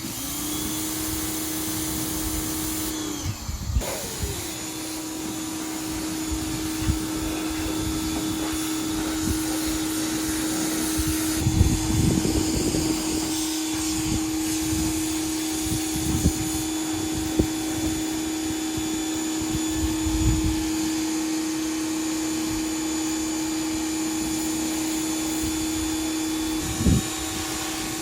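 A small electric motor running with a steady hum. It cuts out briefly about four seconds in, winding down and back up, then runs on steadily. A few scattered knocks sound over it.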